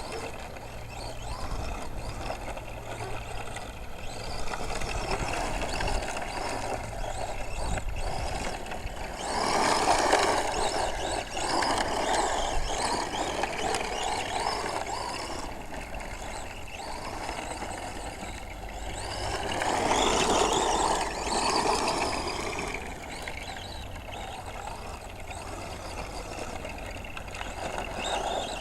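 Radio-controlled truck driving, its motor and drivetrain noise continuous and growing louder twice, around ten and twenty seconds in, as it comes nearer.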